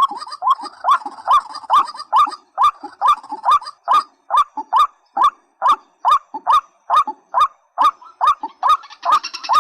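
Calls of a rail-family waterbird, a short rising note near 1 kHz repeated steadily about twice a second. Just before the end a second, harsher and higher-pitched call joins in.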